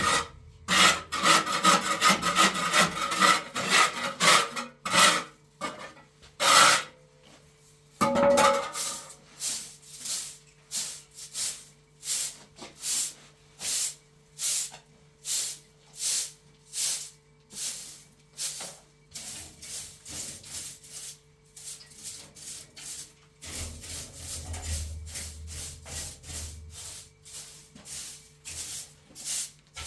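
A hand tool worked back and forth on wood, scraping in regular strokes of about two a second after a denser start.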